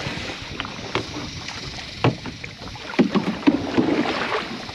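Canoe paddling: paddles dipping and splashing in the water, with a few sharp knocks and a busier run of strokes and splashes near the end.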